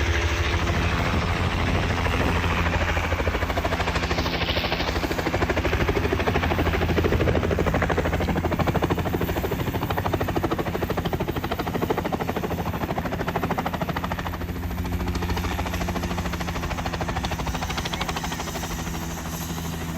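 Helicopter running steadily: a low engine hum under the fast, even beat of the rotor blades.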